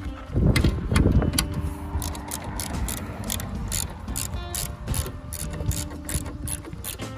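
Ratchet wrench clicking in quick repeated strokes as an 18 mm motor-mount bolt is turned, after a few dull knocks near the start.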